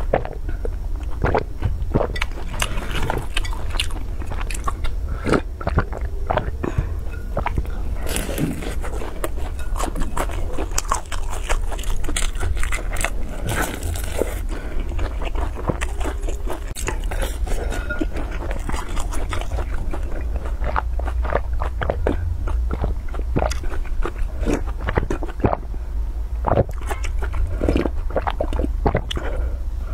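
Close-miked crunching bites and chewing of a crispy fried snack, many sharp crackles all the way through, over a steady low hum.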